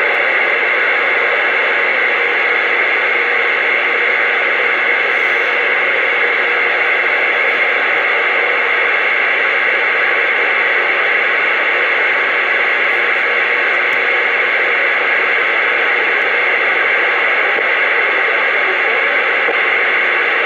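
CB radio receiver hissing with a steady, loud band of static from its speaker while no station is coming through.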